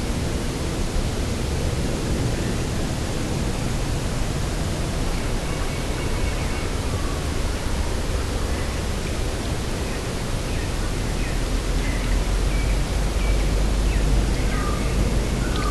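Steady wind over an open grass field, with a gust that deepens the low rumble about twelve seconds in. Faint short bird calls come through the wind from the middle on.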